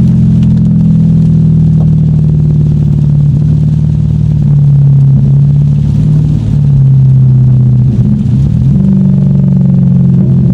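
Lexus car engine running under throttle, loud and steady, its pitch rising and dropping a few times as the revs change.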